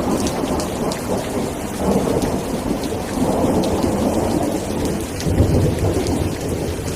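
Steady rain falling, pattering with fine drop ticks, under low rumbling thunder that swells and fades and is loudest about five seconds in.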